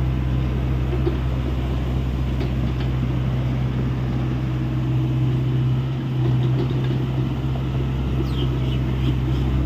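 Hyundai 85A excavator's diesel engine running steadily with a deep, even hum, easing briefly about six seconds in.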